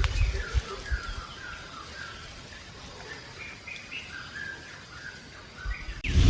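A bird singing: a run of short whistled notes that step up and down in pitch, over a low wind rumble on the microphone in the first second.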